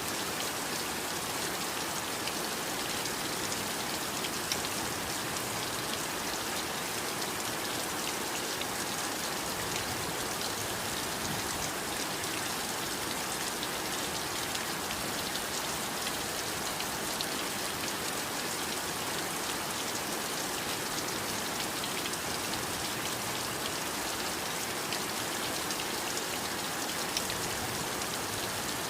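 Heavy rain falling steadily, an even hiss of rainfall with fine drop patter.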